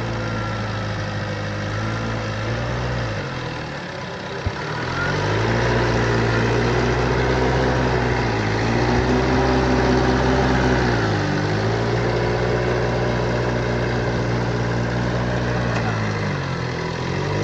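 Off-road 4x4's engine running, its revs dipping and climbing back up several times, louder from about five seconds in. A single sharp click about four and a half seconds in.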